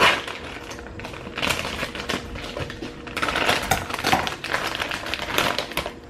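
Rapid clicking and tapping in several bursts from work on a salad, like a knife on a cutting board or utensils in a bowl.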